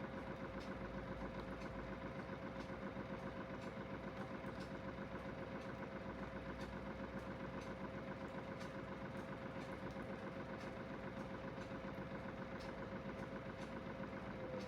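Aidoo 1 kg mini washing machine with its direct-drive motor spinning at a steady speed during its spin cycle: an even hum with a steady whine and a fast, regular pulsing.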